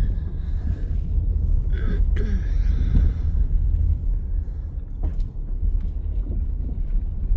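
Low, steady rumble of a car rolling down a bumpy gravel driveway, with a few scattered clicks and knocks from the tyres on the gravel.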